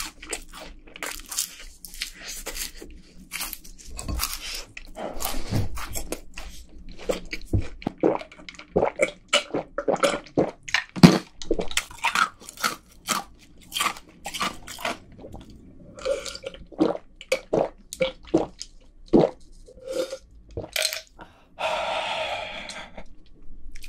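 Crunching and chewing of crispy fried chicken, many short crunches in irregular succession. In the second half come gulps of a drink from a glass, and a breathy exhale near the end.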